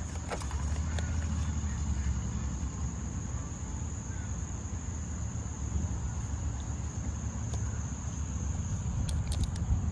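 Insects buzzing in a steady, unbroken high-pitched drone, over a low rumble.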